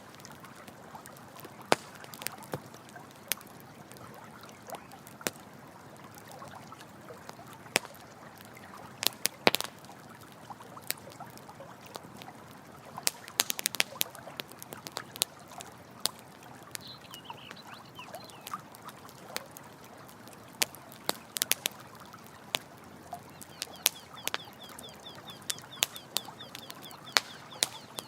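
Campfire crackling, with frequent sharp, irregular pops over a steady rush of running water. An animal's rapid chirping call comes in briefly about two-thirds of the way through and again near the end.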